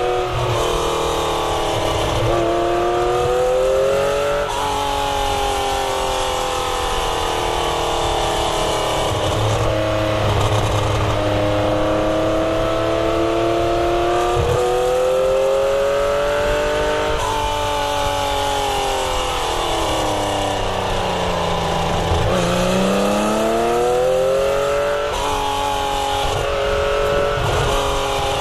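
A 1970 Porsche 911's air-cooled flat-six being driven hard, its note climbing under acceleration and breaking off at upshifts several times. About two-thirds of the way through the revs fall away as the throttle is lifted, then climb steeply again as it pulls out of a bend.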